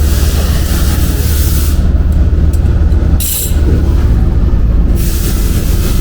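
Steady, loud workshop machine noise: a low drone with a hiss over it. The hiss cuts out for a few seconds in the middle, apart from one short burst of hissing air about three seconds in.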